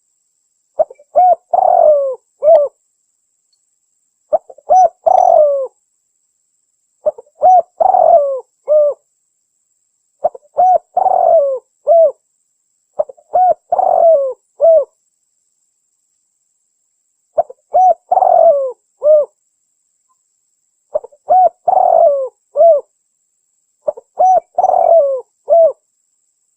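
Spotted dove (tekukur) cooing: eight phrases of several short, rising-and-falling coos, one about every three seconds with silence between. A lure call used to draw doves in, presented as a female calling a male.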